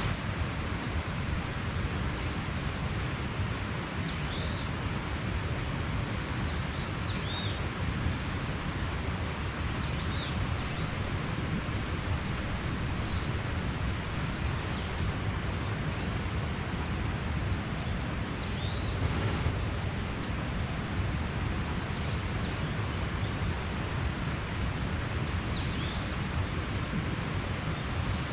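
Mountain stream flowing steadily, with a bird calling short, high chirps every second or two.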